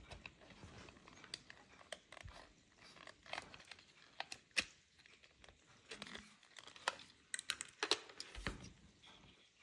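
Irregular small clicks, taps and knocks of hand work on the parts of an old electric hair dryer under repair, with a few sharper clicks around the middle and near the end; the dryer itself is not running.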